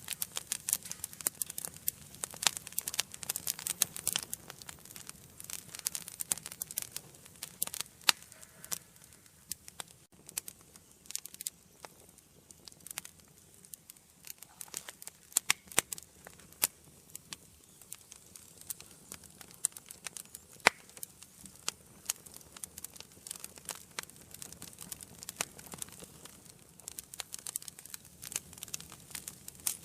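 Wood fire burning in an indoor fireplace: a steady stream of irregular sharp crackles and pops over a faint low rush of flame, a few louder pops standing out.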